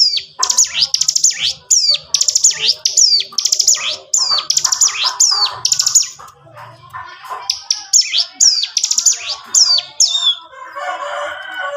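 Ciblek gunung, a prinia, singing 'ngebren': rapid runs of sharp, high, downward-sweeping notes, with a short pause about two-thirds of the way in, then a lower chattering phrase near the end.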